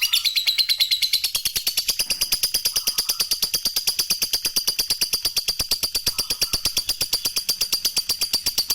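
Lovebird ngekek: one long, unbroken chattering trill of sharp, high 'kek' notes repeated evenly at about ten a second.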